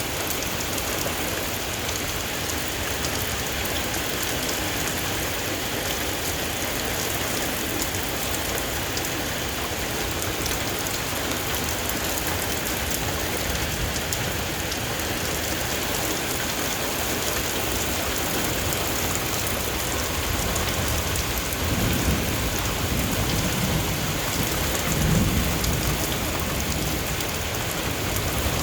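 Heavy rain pouring steadily in a severe thunderstorm, with a roll of thunder rumbling in the last third.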